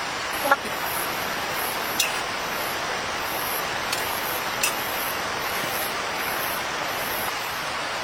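Steady rain hissing, with a few sharp drip-like ticks about half a second, two, four and four and a half seconds in.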